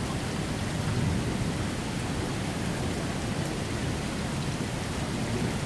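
Steady hiss of heavy rain in a thunderstorm, with a constant low rumble underneath.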